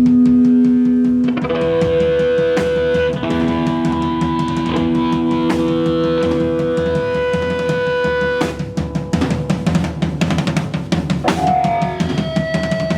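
A rock band playing live: sustained guitar notes over a full drum kit, with the drumming getting busier from about two-thirds of the way in.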